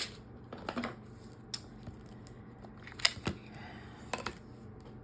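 A few light, scattered clicks and taps of small craft items being handled on a work surface.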